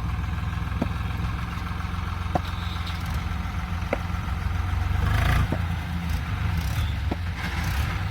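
Tractor engine running steadily, with a short sharp tick about every second and a half. It grows louder and rougher for a moment about five seconds in.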